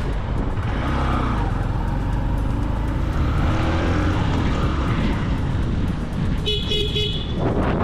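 Road traffic and vehicle running noise, with a car horn honking briefly in a few quick pulses about six and a half seconds in.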